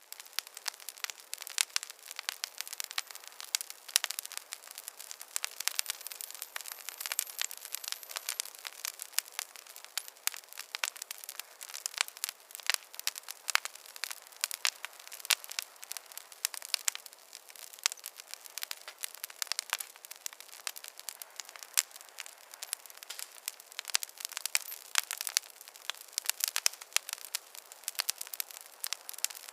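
Wood fire crackling: a dense, irregular stream of sharp pops and snaps over a soft hiss, with no low rumble.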